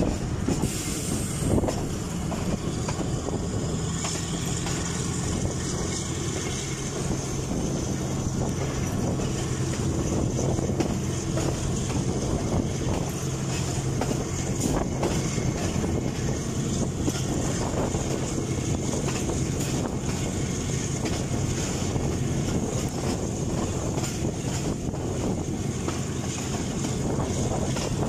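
Passenger train running steadily along the track: a continuous rumble with a low steady hum and scattered clicks from the wheels on the rails.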